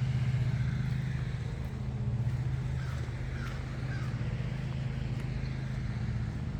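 A steady low mechanical drone, like an engine running, with three faint short calls a little after the middle.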